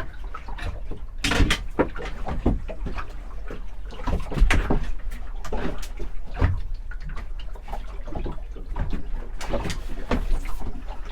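Irregular knocks and clatter of handling on a small boat, over a steady low rumble of wind.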